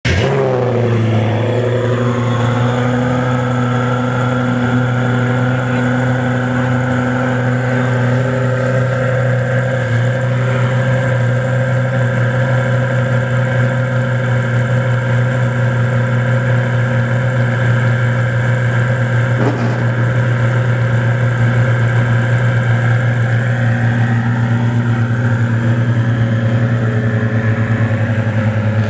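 Lamborghini Gallardo's V10 engine idling, settling to a steady idle within the first couple of seconds and then holding an even, unchanging note.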